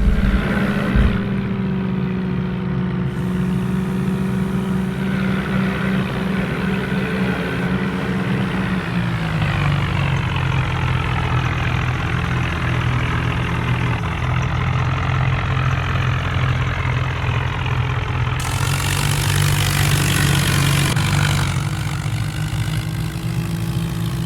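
Vehicle engine running steadily at a constant pitch, then settling to a lower pitch about a third of the way in; a hiss joins about three quarters of the way through.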